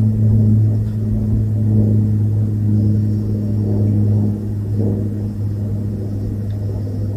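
A vehicle engine running at steady revs: a loud, even low hum with no change in pitch.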